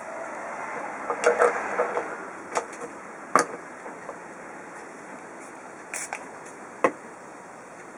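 A few sharp clicks and knocks, the loudest about halfway through, over a steady hiss.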